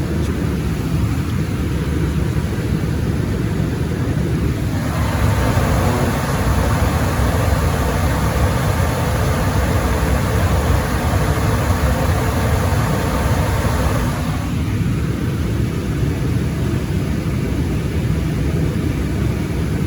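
Residential gas furnace running with a steady low rumble; a broader rushing sound joins about five seconds in and stops abruptly about fourteen seconds in.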